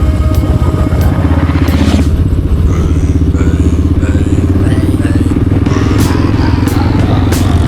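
A motorcycle engine running loud and steady. It cuts in abruptly at the start.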